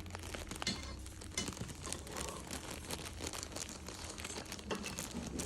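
Irregular crinkling and rustling, as of something being handled or crumpled, made up of many small quick clicks.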